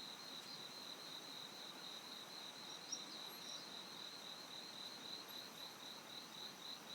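Cricket chirping steadily: a faint, high, pulsed call repeating about four times a second.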